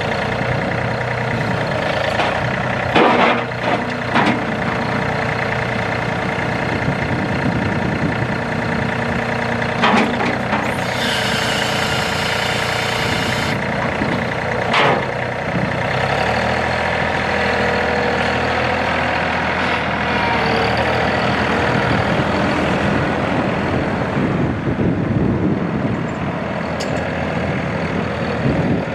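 John Deere 3025E's three-cylinder Yanmar diesel running steadily, with a few sharp knocks and a brief high hiss around the middle.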